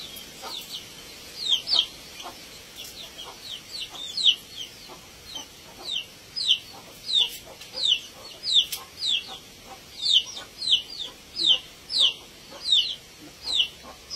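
A bird peeping: short, high-pitched calls repeated about twice a second without a break, getting louder after the first couple of seconds.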